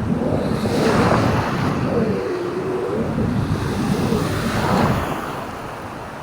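Surf washing onto the shore and wind buffeting the microphone in a rough rumble, with a faint wavering tone that dips and rises in the middle.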